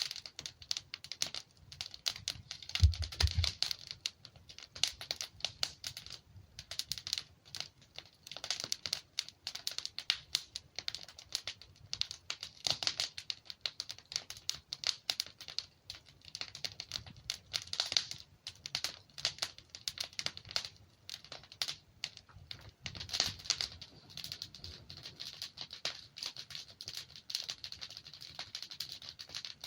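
Wood fire crackling and popping as logs burn, a dense, irregular run of small snaps. A brief low thump about three seconds in.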